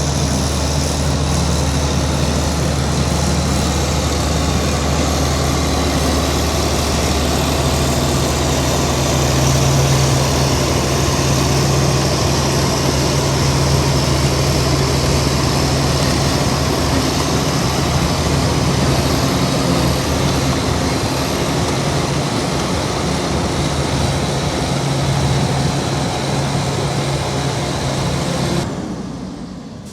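Heavy diesel engine of earth-moving machinery running steadily with a deep, even hum; the sound drops away sharply about a second before the end.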